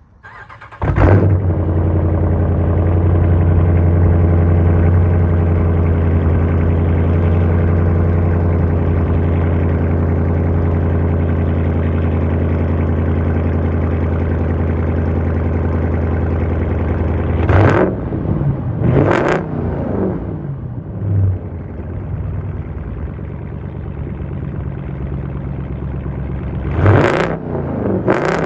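2015 Dodge Durango R/T's 5.7-litre Hemi V8 with a resonator-delete exhaust starting up about a second in and settling into a steady idle. Later it is revved in quick throttle blips: two, a smaller one, then two more near the end.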